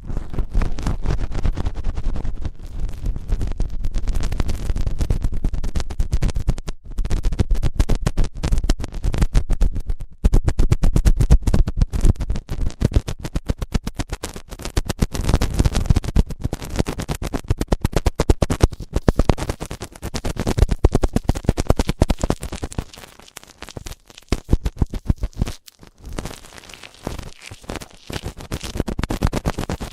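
Close-up ear-cleaning sounds on a microphone: rapid, dense scratching and rubbing with a few brief pauses, growing sparser and quieter in the last third.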